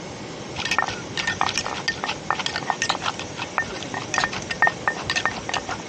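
Rapid, irregular clinking and knocking of kitchen utensils, several strikes a second, starting about half a second in. Many of the strikes have a short metallic ring.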